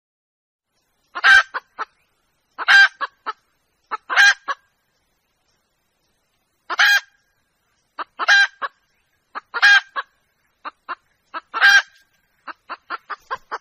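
Young red junglefowl hen calling for a rooster: a loud pitched note about every one and a half seconds, each followed by two or three short quieter notes, ending in a quick run of short notes.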